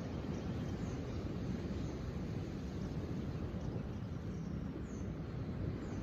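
Steady low outdoor rumble with faint, short high-pitched bird chirps several times over it.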